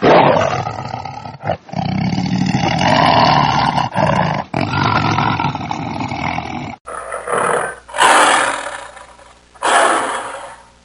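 Bengal tiger roaring: a long, loud run of rough roars broken only briefly twice. After a sudden change about seven seconds in come three shorter roars, each fading out.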